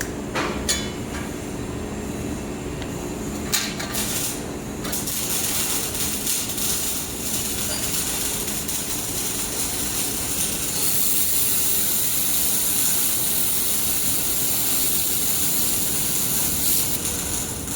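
Reci air-cooled handheld laser welder running a weld bead: a steady hiss, with a few sharp clicks in the first five seconds, and the hiss growing stronger about five seconds in and holding.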